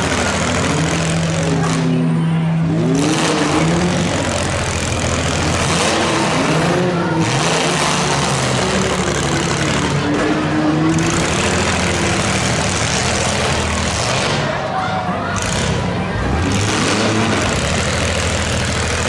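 Several demolition derby cars' engines running and revving at once, the pitch of the revs rising and falling over a steady low engine drone.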